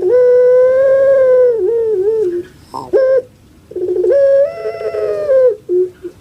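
Puter pelung dove (domestic ringneck dove, Streptopelia risoria) calling: two long drawn-out coos, each about two seconds, ending in a few short wavering notes, with brief coos in between.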